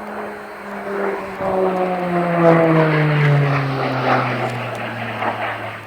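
A propeller aircraft flying past. Its engine note grows loud, then falls steadily in pitch as it goes by and fades away.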